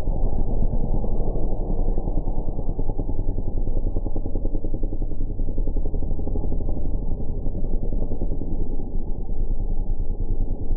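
Dirt bike engines at a motocross race, heard as a steady, deep, muffled rumble with no high sounds at all.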